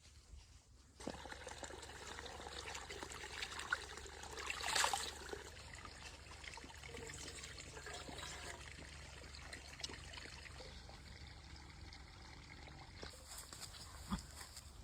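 Water trickling and pouring, with a louder splashing swell about five seconds in and small clicks throughout.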